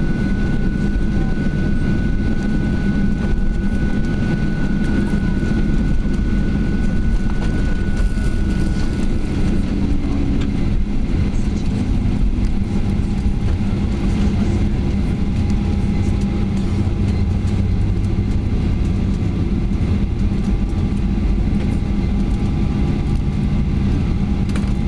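Steady cabin noise inside a Boeing 737-800 taxiing on the ground, its engines running at low power: an even low rumble with a faint steady whine. A higher whine fades out about ten seconds in and a lower one holds on.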